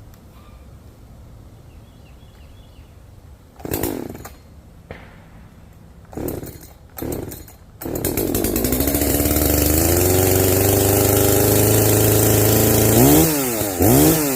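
Echo CS-590 Timberwolf 59.8 cc two-stroke chainsaw being started. Three short sputters come before it catches about eight seconds in. It then idles, its pitch creeping up a little as it settles, and is revved in quick throttle blips near the end.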